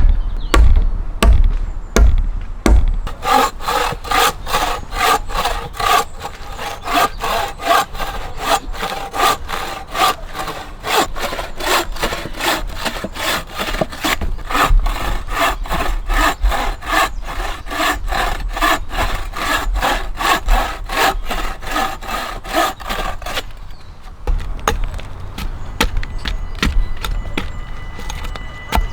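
A few heavy knocks on wood, then a hand saw cutting through a log with steady back-and-forth strokes, about two to three a second. The sawing stops about three-quarters of the way through.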